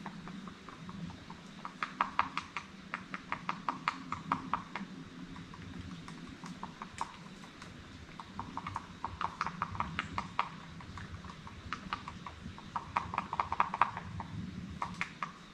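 Footsteps of a hiker walking along a dirt and rock trail: an uneven run of sharp steps, several a second, with short pauses.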